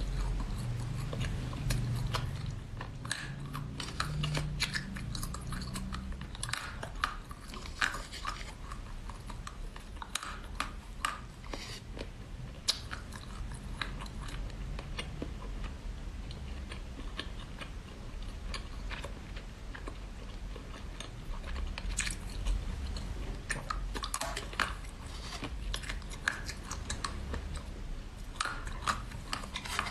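Close-up mouth sounds of biting and chewing small frozen jelly pieces: irregular crunchy crackles with sharper bites now and then.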